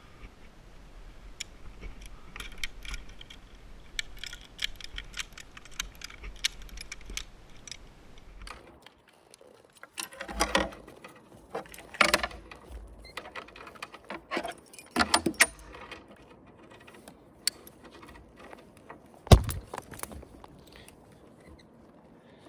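Light metal clinking and jangling of tools and hardware during line work, with several louder clanks and one sharp knock late on, the loudest sound.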